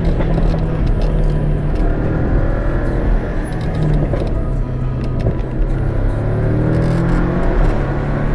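Porsche 718's engine heard from inside the cabin while it is being driven, with steady road noise underneath. Its pitch climbs as the car accelerates midway through, then settles.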